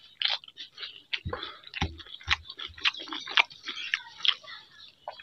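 A person chewing a mouthful of rice and fried vegetable close to the microphone: irregular wet smacks and clicks of the mouth, with a few low thumps between one and two and a half seconds in.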